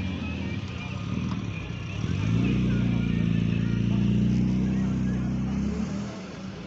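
Car engine running at low revs close by, growing louder about two seconds in and fading near the end, as a car drives slowly past. Its pitch stays fairly even, and another engine hums underneath.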